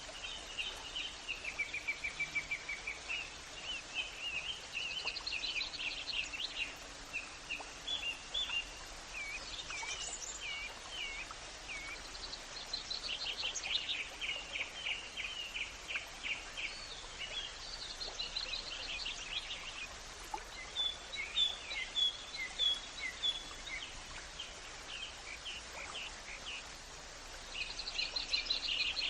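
Songbirds singing almost without pause: runs of quick chirps, trills and short whistled phrases, over a steady background hiss.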